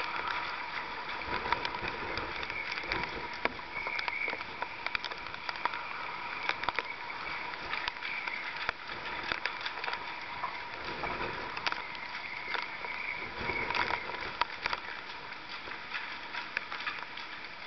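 Rough sea surging and sloshing around moored yachts. Frequent sharp clicks and knocks run through the water noise, over a thin, steady high tone.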